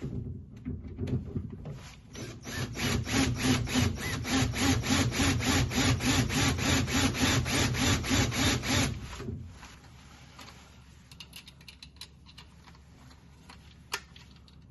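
Drill turning a screw extractor (easy out) that bites into a seized door screw, a rough rhythmic grinding at about four pulses a second that runs for about nine seconds and then stops. A few light clicks follow, with one sharp tick near the end.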